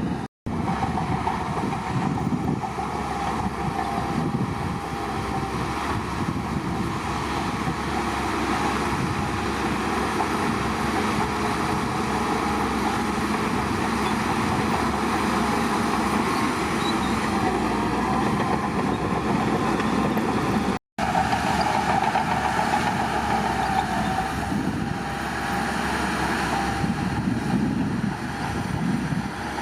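Bulldozer working, its diesel engine running steadily with a wavering whine over the rumble. The sound cuts out completely for an instant twice: once just after the start and once about two-thirds of the way through.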